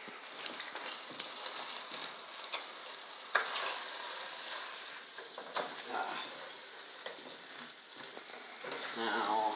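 Ground beef and onion sizzling in a frying pan, with a spatula scraping and knocking against the pan several times as the meat is broken up.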